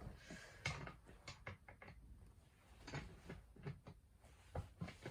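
Light, irregular clicks and knocks from a Poulan 245/306 chainsaw being turned over slowly by hand, to check the newly set ignition points.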